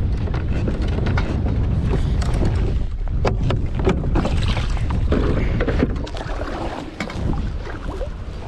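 Strong wind buffeting the microphone in a low rumble, with water slapping and splashing against a fishing kayak's hull and many short knocks and clicks. It eases off a little near the end.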